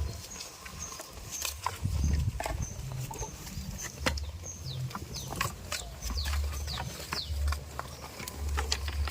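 Goat farm ambience: many short high chirps and scattered sharp clicks and knocks over an intermittent low rumble.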